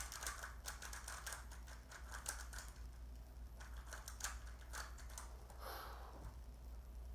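A Rubik's cube being turned by hand: a fast, irregular run of plastic clicks and clacks as the layers snap round, densest in the first few seconds and sparser later.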